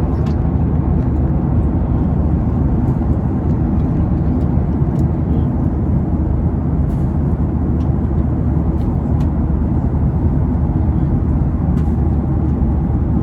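Steady drone of an airliner cabin in flight: engine and airflow noise with a low hum, unchanging throughout, with a few faint clicks.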